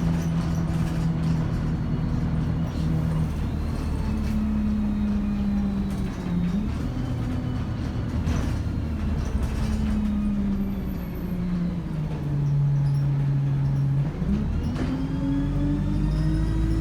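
ADL Enviro 200 bus running under way: a drone from the engine and three-speed Voith automatic gearbox that drops in pitch in steps, then climbs steadily near the end as the bus accelerates, with a faint high turbo whine above it.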